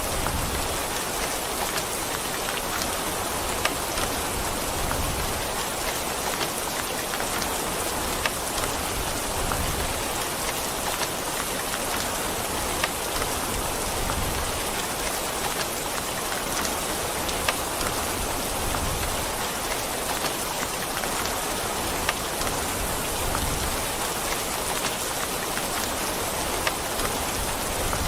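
Steady, heavy rain falling, an even hiss of many drops with scattered single louder drops and taps standing out here and there.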